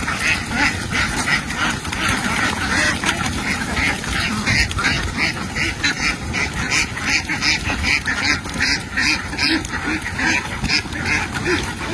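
A large flock of domestic ducks quacking without pause, many calls overlapping into a dense, steady chatter.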